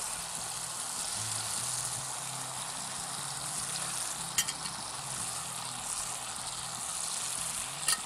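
Eggplant slices, potatoes and tomato masala sizzling steadily as they fry in a pot on a gas burner while being stirred with a spatula. Two sharp clicks of the spatula against the pot, one about four and a half seconds in and one near the end.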